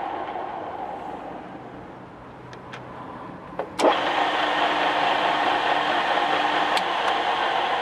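Takisawa TSL-550 engine lathe running with a steady machine hum that fades away over the first two seconds. After a few light clicks there is a sharp clunk just before the middle, and then the machine runs again, louder.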